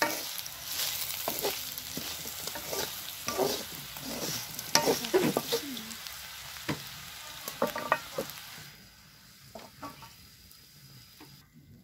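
Grasshoppers sizzling in hot oil in a wok while a metal spatula stirs and scrapes them against the pan. The sizzling drops away about three-quarters through, leaving a few faint knocks.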